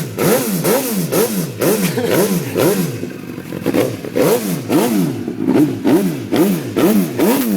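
MV Agusta motorcycle engine through full titanium race pipes, revved hard in quick throttle blips about twice a second, each one rising and falling in pitch.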